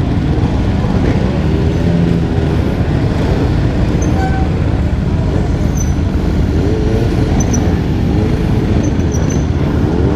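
Dirt bike engines running, their pitch wavering up and down as they rev, over a steady low rush of road and wind noise.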